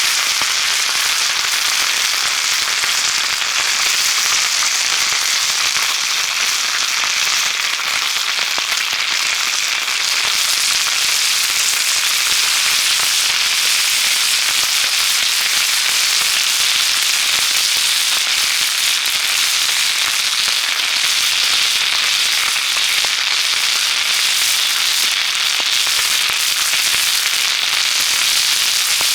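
Dense, steady crackling and sizzling of meat grilling over a wood campfire.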